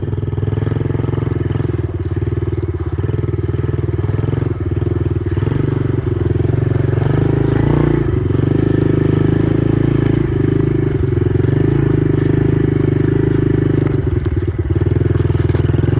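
An engine running steadily and loudly, with a fine rapid pulse and a slight shift in tone about eight seconds in.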